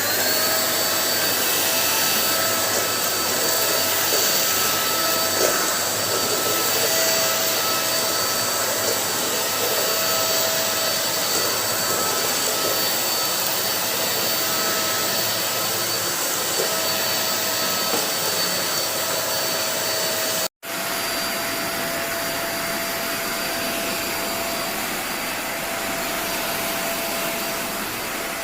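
Deerma DX700 handheld vacuum cleaner switched on and running steadily, its motor spinning up with a rising whine at the start and then holding a steady whine over the rush of suction air. The sound drops out for an instant about twenty seconds in and then carries on.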